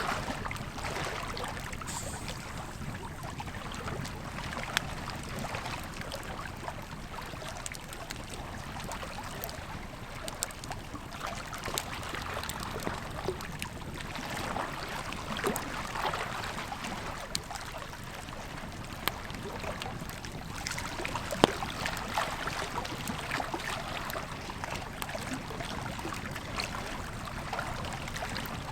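Campfire crackling, with scattered sharp pops over the steady rush of a flowing river; one pop about three-quarters of the way through is the loudest sound.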